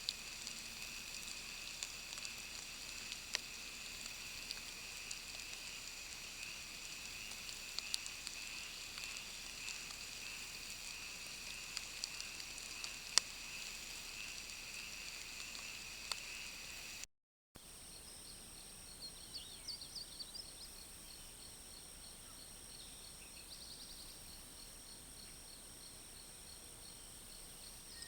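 Outdoor ambience of insects chorusing in several steady high tones, with scattered faint clicks. It breaks off briefly about halfway through and comes back as a different chorus, with a fast high pulsing and a few short chirps.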